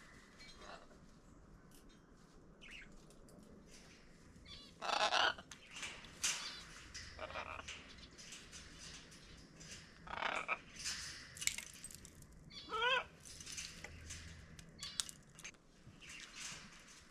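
A mixed flock of parrots in an aviary calling on and off: scattered short squawks and chirps, the loudest about five seconds in. About thirteen seconds in, one bird gives a quick warbling trill.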